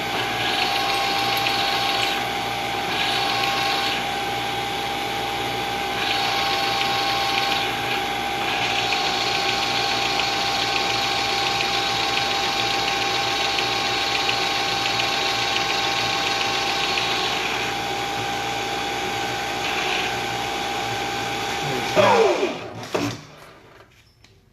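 Milling machine spindle running at high speed with a steady whine, the tool cutting in several stretches of harsher noise, the longest lasting about nine seconds. About 22 seconds in the motor is switched off and the spindle winds down to a stop.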